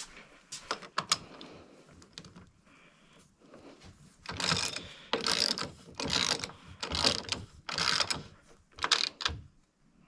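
Metal clicking and rasping from hand tools on engine mounting hardware: a few sharp clicks, then about six short strokes roughly a second apart, like a ratcheting tool working a bolt.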